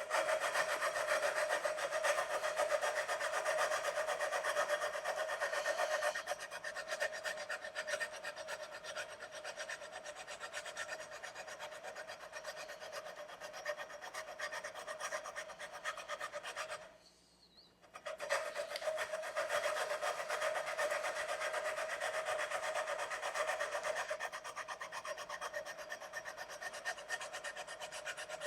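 Sandpaper on a fret-levelling bar rubbed rapidly back and forth across a guitar neck's metal frets, a steady scraping that wears the frets down level. It pauses for about a second partway through, then resumes.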